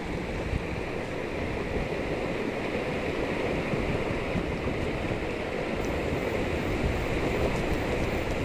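Steady rushing water noise, even and continuous.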